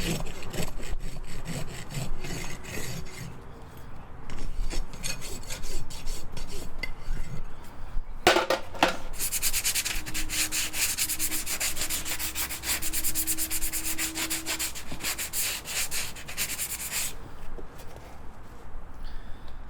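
Farrier's rasp filing a horse's hoof in quick, repeated strokes, with a burst of fast strokes in the second half.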